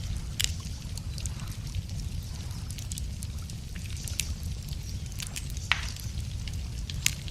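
Wood campfire crackling, with irregular sharp pops and snaps of burning logs over a steady low rumble.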